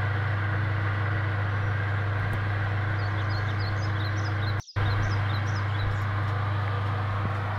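Fan-assisted oven running: a steady low hum with rushing air noise, cutting out for a split second about two-thirds of the way through. Faint high chirps sit above it.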